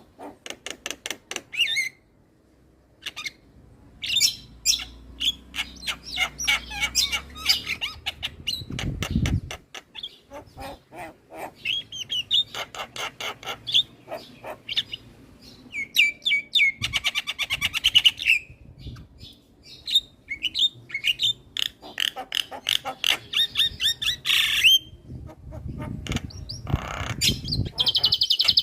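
Javan myna (jalak kebo) singing in a long chattering run: fast trains of clicks and rattles mixed with whistled notes and harsh squawks. Brief low rumbles sound about a third of the way in and again near the end.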